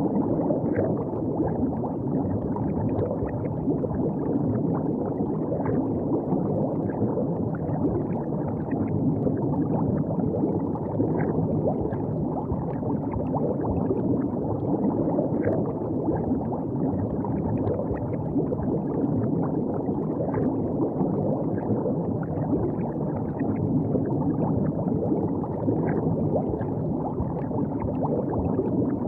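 River water flowing and gurgling steadily, with small splashy flecks throughout.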